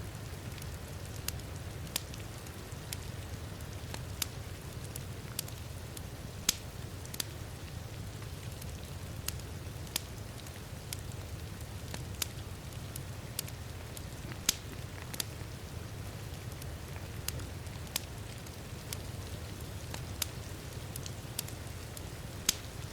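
Wood fire crackling in a fireplace, with sharp irregular pops about once a second over a steady low rumble, mixed with the soft, even hiss of heavy rain.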